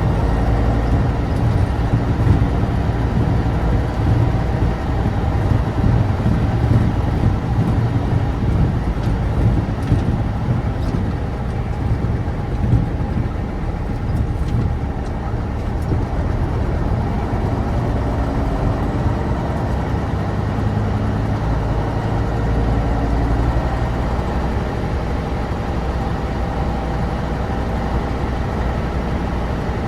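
Tatra 815's air-cooled, naturally aspirated V10 diesel engine running steadily as the truck drives, somewhat louder in the first half and a little quieter and steadier in the second.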